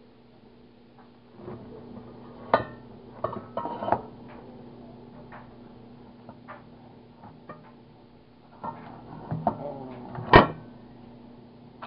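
Scattered knocks and clinks of metal engine parts being handled and set down, the loudest a sharp knock about ten seconds in, over a steady low hum.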